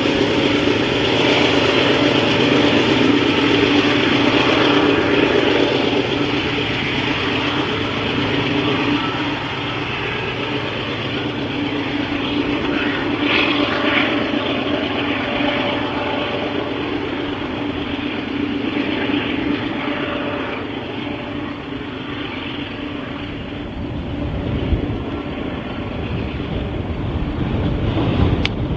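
Freight train of empty tank cars rolling past, a steady rumble and rattle of wheels on the rails with a low hum that fades after about six seconds. Gusty wind buffets the microphone.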